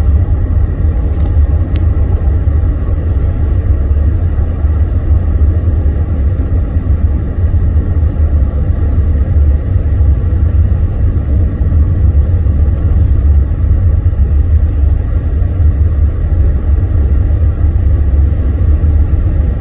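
Steady low rumble of a car driving, heard from inside the cabin: engine and road noise, unchanging throughout.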